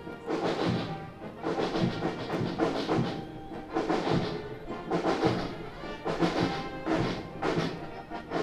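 Marching band playing a march: brass over a steady drum beat.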